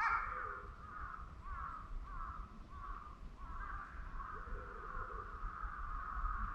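Birds calling: a steady chorus of overlapping short chirping calls.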